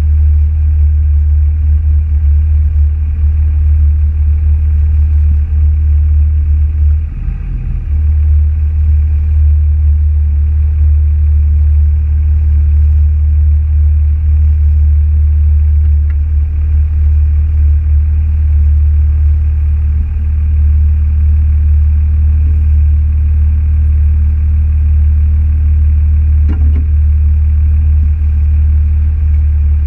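Steady, loud, low drone of a motor vehicle's engine, with a brief dip about seven seconds in.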